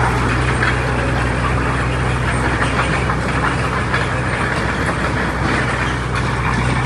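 Heavy diesel engine of earthmoving machinery running steadily with a constant low engine note.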